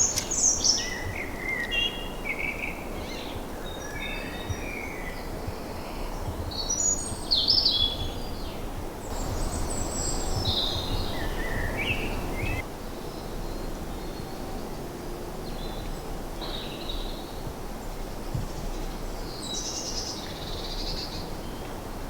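Several woodland songbirds singing in spring, with short chirping and warbling phrases from different birds overlapping, over a steady low background rumble.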